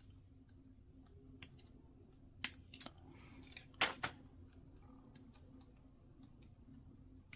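Faint, scattered sharp clicks and snaps of small plastic model-kit parts being handled and fitted, the loudest two pairs about two and a half and four seconds in.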